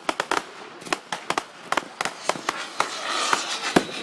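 Fireworks going off: a rapid, irregular run of sharp bangs and crackles, with a rising hiss about three seconds in.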